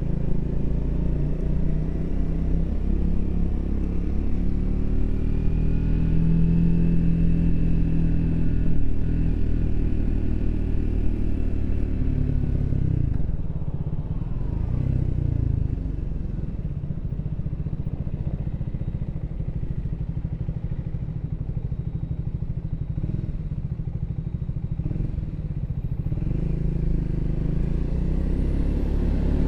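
Triumph Speed 400's single-cylinder engine running under way. Its pitch climbs steadily for about twelve seconds, drops back sharply as the throttle closes, holds lower and steadier for a while, then rises again near the end as it accelerates.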